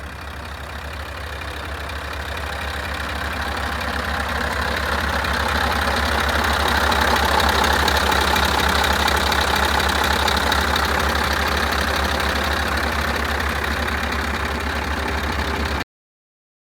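Scania R500 truck's V8 diesel engine idling with a steady, even beat. It grows louder over the first several seconds, holds steady, then cuts off abruptly near the end.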